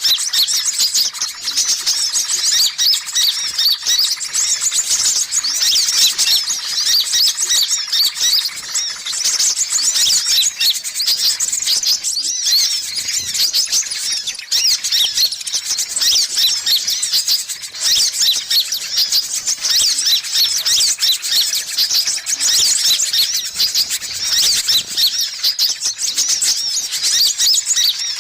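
Dense, unbroken chorus of high, quick sunbird chirps and twitters from a bird-lure recording of kolibri ninja and kolibri kelapa calls. It is the kind of busy, noisy call used to draw wild sunbirds in.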